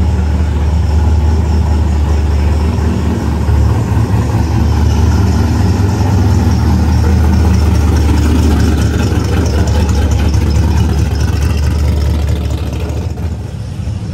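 A car engine idling close by with a steady deep rumble, easing off a little near the end.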